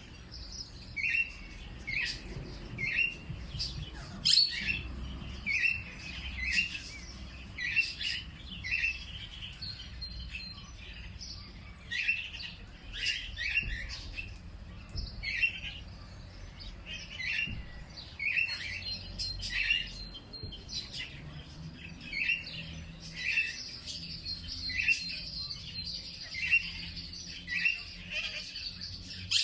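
Birds chirping: a short chirp repeated about once or twice a second, with occasional sharper, higher calls over a low steady rumble.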